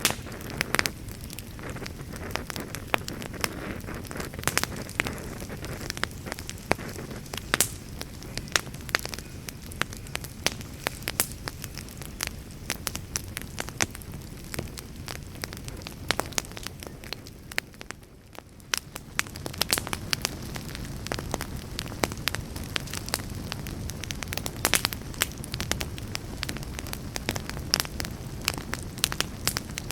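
Campfire crackling: many irregular sharp pops and snaps over a steady low rumble of burning wood, briefly quieter about 18 seconds in.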